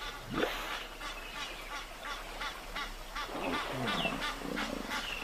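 Geese honking in a rapid run of short calls, about four a second. Lower, wavering calls join in around the middle.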